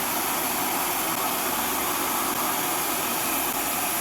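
RevAir reverse hair dryer running steadily, its motor drawing air and a section of hair into the heated tube to straighten it.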